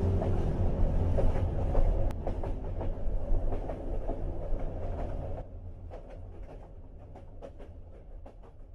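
Train running on rails: a low rumble with the clickety-clack of wheels over rail joints. It drops to a quieter level about halfway through and keeps fading.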